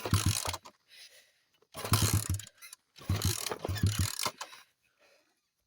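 Small 50cc dirt bike being kick-started three times, the engine turning over in quick pulses without catching. The bike has been sitting for a while; the owners expect a carb clean to make it start easily.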